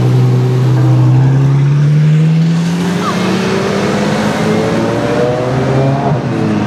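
Ferrari F12's V12 engine through an Armytrix exhaust, accelerating at low revs. The note climbs steadily for about six seconds, then drops back near the end.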